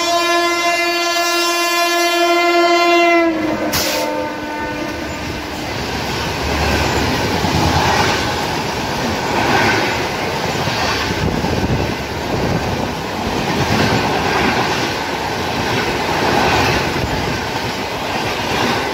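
WAP-7 electric locomotive sounding a long horn for about three seconds, its pitch dropping as it ends. The passenger coaches of the Vaigai Superfast Express then rush past close by at speed: a loud, steady roar with a repeating clatter of wheels over rail joints.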